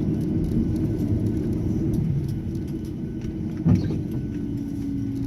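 Steady low cabin rumble inside a Boeing 737-800 taxiing in to the gate with its engines at idle, and a single sharp knock a little past halfway.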